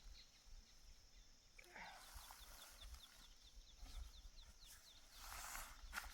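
Near-silent outdoor ambience with a faint rapid series of short, high, falling chirps, about five a second, from a small creature in the surroundings, and soft rustling twice.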